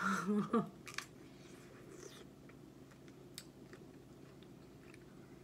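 Faint chewing of fresh fruit, with a few soft, sharp mouth clicks.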